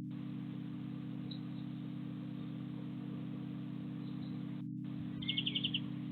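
A steady low hum with faint hiss, and about five seconds in a small bird gives a quick run of about six high chirps.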